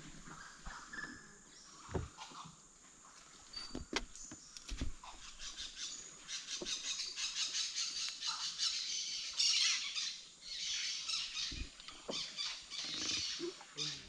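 Amazon rainforest ambience with birds calling. A few sharp clicks come around two and four seconds in, and from about six seconds in there is a dense run of rapid high chirps, loudest near the ten-second mark.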